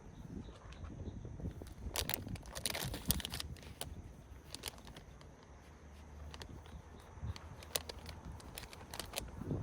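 Irregular rustling and sharp clicks, like gear or material being handled, over a low rumble; the rustling is busiest between about two and three and a half seconds in.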